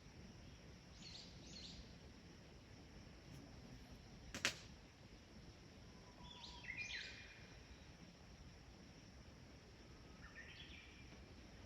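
Quiet rural outdoor ambience with small birds chirping in three short bursts, and one sharp click or pop a little under halfway through.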